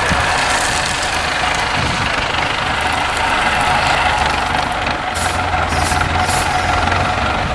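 IFA W50 4x4 truck's diesel engine running steadily, a low rumble under a steady whine.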